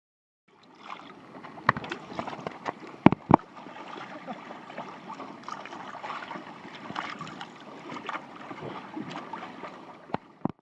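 Sea kayak on the water: a steady wash of water splashing and sloshing around the hull and paddle, with a few sharp knocks, the loudest two close together about three seconds in and two more near the end.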